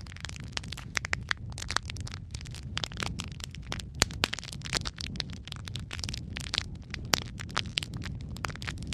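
Wood fire crackling steadily, with many irregular sharp pops and snaps over a low, steady rumble of burning.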